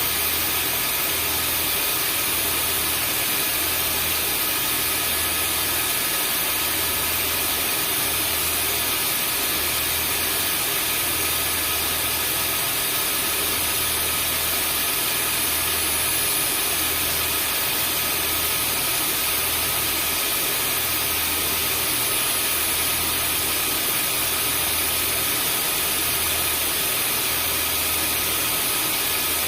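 Vacuum cleaner motor running steadily: an even whooshing noise with a thin high whine. Underneath, a low hum swells and fades about every second and a half.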